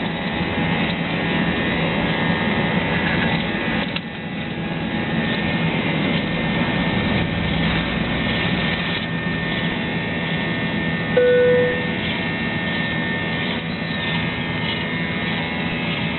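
Airbus A320's twin jet engines running at takeoff power: a loud, steady roar with engine whine. About eleven seconds in, a brief single beep-like tone sounds over it.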